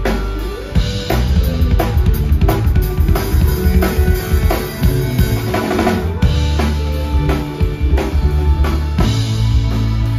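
Live rock band playing an instrumental passage: a drum kit with bass drum and snare driving the beat under held bass notes, with guitar and keyboards.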